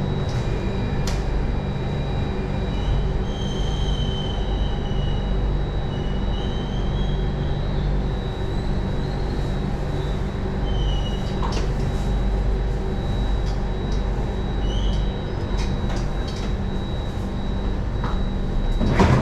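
Singapore MRT train heard from inside the car: a steady rumble and hum of the train running on its rails, with a few short wheel squeals that are strongest about 3 to 6 seconds in and come again briefly later, plus scattered clicks.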